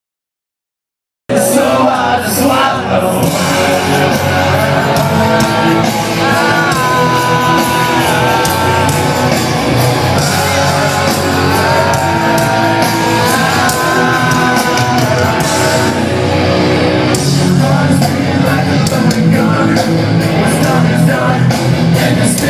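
A second of dead silence, then a live rock band playing loud with a singer holding long notes, recorded from the crowd.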